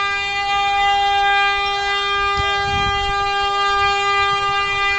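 A truck horn sounding without a break at one steady pitch.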